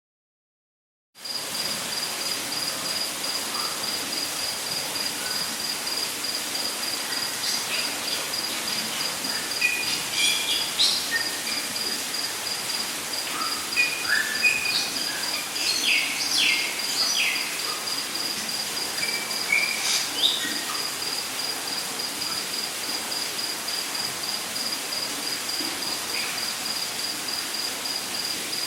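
Rainforest ambience: a steady, rapidly pulsing high insect trill over a constant rushing hiss of falling water, with scattered bird chirps and whistles in the middle stretch. It starts after about a second of silence.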